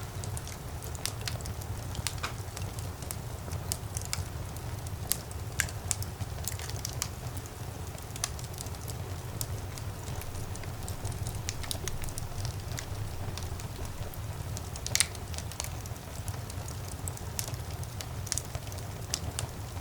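Wood fire burning in a fireplace: a steady low rumble of the flames with frequent sharp crackles and pops, one louder pop about fifteen seconds in.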